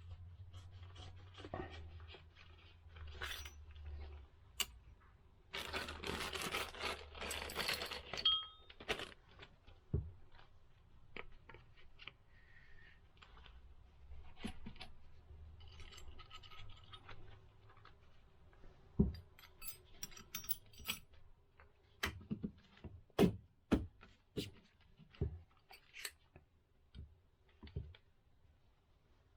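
Motorcycle front-fork parts being handled on a workbench: scattered clicks and metallic knocks, with a few seconds of rubbing and scraping about six seconds in and a quick run of sharper knocks near the end.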